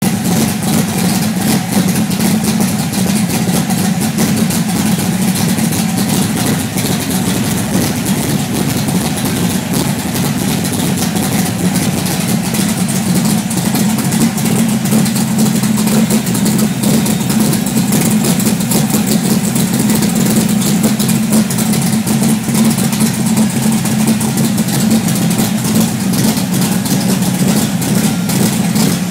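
Engine of a pro-street 1968 Plymouth Sport Satellite idling steadily.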